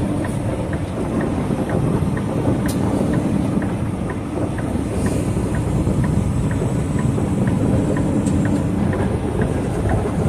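Semi truck driving on a rough road, heard from inside the cab: a steady engine and road drone, with a faint regular ticking about three times a second.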